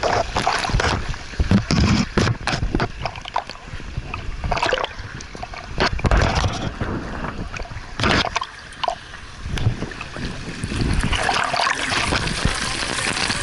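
Water splashing and sloshing in irregular bursts as someone moves through a water obstacle.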